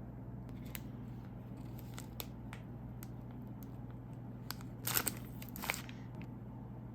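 Handling of a plastic snack wrapper: scattered small clicks, then a brief, louder crinkle and tear of the packaging about five seconds in, over a steady low hum.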